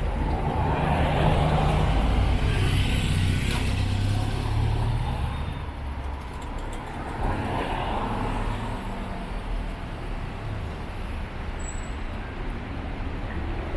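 Road traffic: motor vehicles passing on a street, one swelling and fading over the first few seconds and another passing about halfway through, over a low engine hum.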